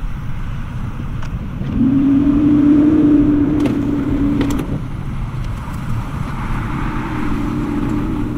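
AI-generated sound effect of off-road vehicles racing: a dense, low engine rumble with a steady drone that swells louder from about two seconds in until about five seconds in, then carries on more quietly.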